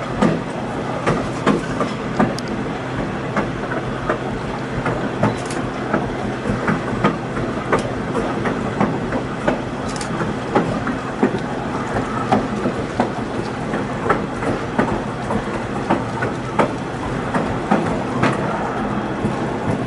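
Moving passenger train heard from on board: a steady rumble with frequent, irregular clacks of the wheels over the rails.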